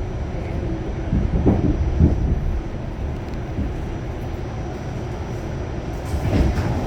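Pullman Standard R46 subway car running on the track, heard from on board: a steady low rumble of wheels and running gear, with a few short knocks about a second and a half in, at two seconds, and again near the end.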